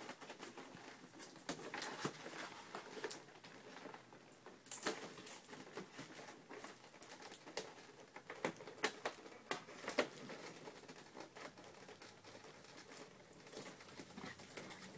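Faint, irregular clicks, taps and light rustling of small objects and packaging being handled, with no motor running.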